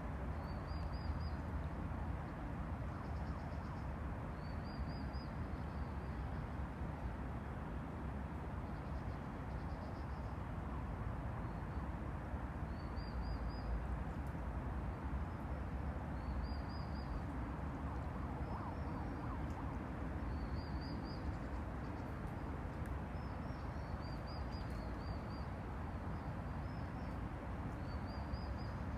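Han River water washing against the bank in a steady, even hiss with a low rumble beneath it. A short, high chirping call repeats every three to four seconds.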